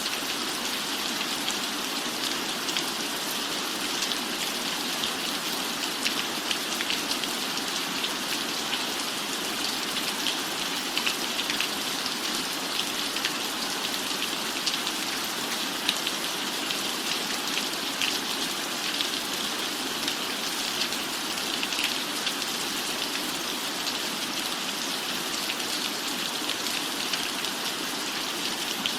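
Steady rain falling, an even hiss with many small, scattered drop ticks.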